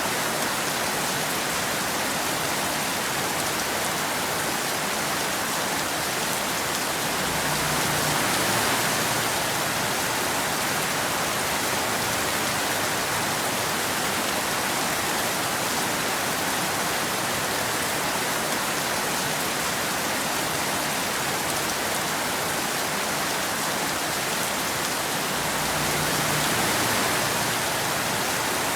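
Steady rain with no thunder, an even hiss of falling drops that swells slightly about eight seconds in and again near the end.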